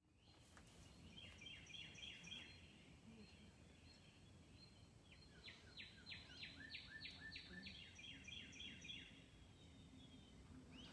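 Faint songbird singing: runs of quick repeated chirps, with a faster series of about eight notes in the middle, over low steady background noise.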